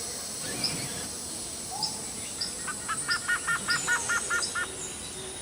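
A bird calling a quick run of about ten short repeated notes, roughly five a second, in the middle of the stretch, with a few faint high chirps around it over a steady high insect hiss.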